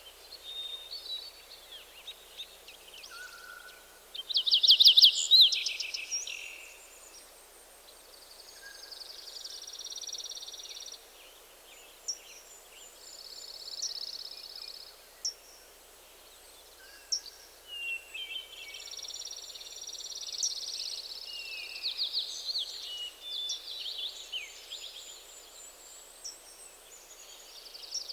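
Several songbirds singing in a forest, with a loud, fast trill about five seconds in and repeated high, buzzy trilled phrases through the rest. A soft steady hiss lies underneath.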